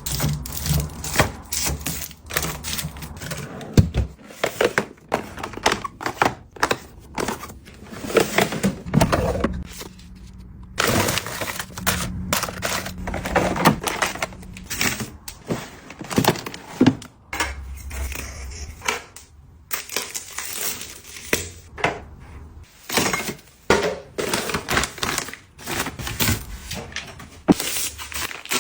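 Packaging being handled and unwrapped by hand: an irregular run of crinkles, taps and clicks with a few short pauses.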